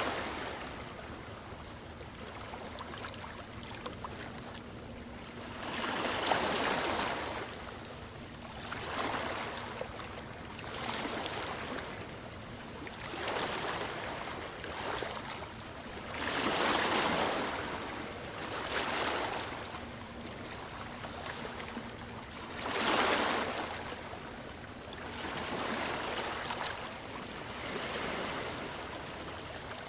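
Ocean waves washing in and breaking, a rushing surge every two to three seconds with a few bigger swells between smaller ones.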